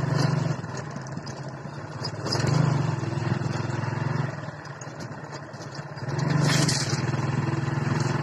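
Motorcycle engine of a tricycle running, heard from the sidecar while riding. Its steady hum drops away twice and picks up again as the throttle eases and opens.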